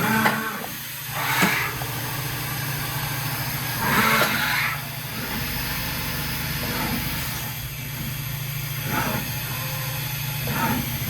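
Fadal 2216 CNC vertical machining center running under power: a steady low hum, with brief louder whirring surges several times.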